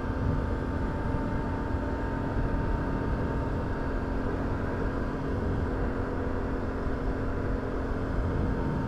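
Can-Am Outlander 850 ATV's V-twin engine running at a steady speed and pitch while the quad rides along the trail.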